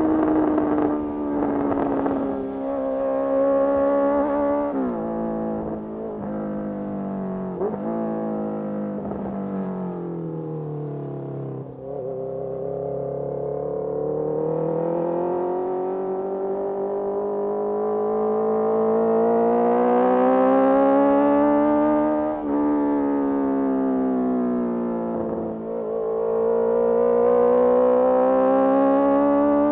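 Honda CBR650R's inline-four engine, breathing through a Mivv MK3 carbon exhaust, under way. The revs rise and fall with the throttle, with a few sharp dips in pitch and a long, slow climb through the middle.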